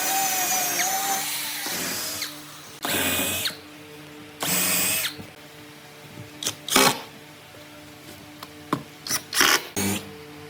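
A handheld power tool runs for about two seconds, stops, then runs in two short bursts, followed by several sharp clicks and knocks of work on wood.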